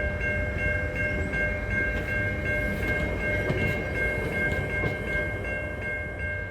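Train rumbling by with a bell ringing steadily, about three strokes a second.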